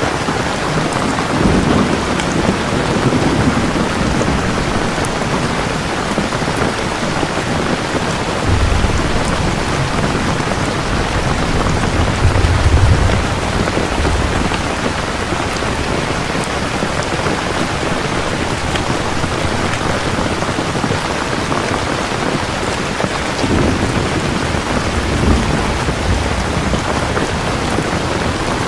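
Steady heavy rain falling, with low thunder rumbling in several separate rolls: near the start, around the middle, and again near the end.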